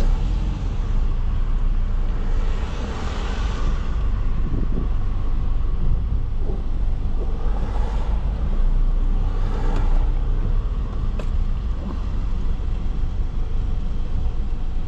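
Car driving along streets, heard from inside the cabin: a steady low rumble of road and engine noise with a light hiss above it.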